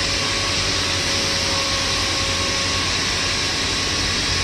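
Steady machine drone with a low hum and an even hiss, holding constant throughout, with a faint steady tone that fades out about three-quarters of the way through.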